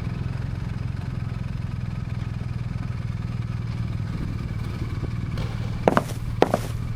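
Motorcycle engine idling steadily, with a few sharp knocks near the end.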